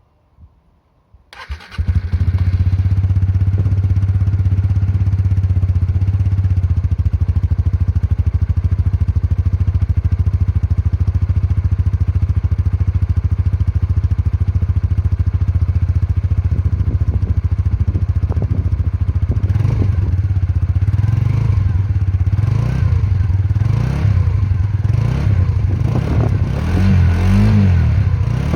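Suzuki GSX-R125's single-cylinder four-stroke engine heard through its stock muffler. It starts up about a second and a half in and idles steadily. In the last several seconds the throttle is blipped again and again in short revs.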